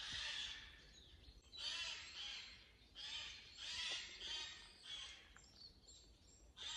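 Woodland birds calling in agitated bursts of harsh, chattering calls with short pauses between them. The recordist takes this commotion as a warning that something may be moving through the area.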